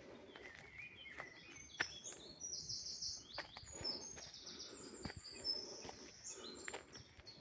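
A songbird singing a fast, varied song of high, rapidly repeated notes, with a few sharp clicks.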